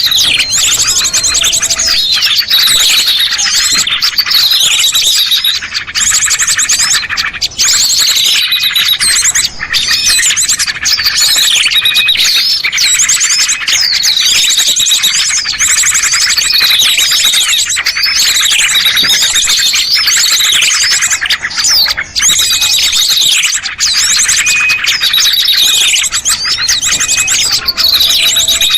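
Dense, loud chorus of small songbirds chirping and trilling, a recording played to lure small birds. A call that falls in pitch recurs every two to three seconds over fast, high trills.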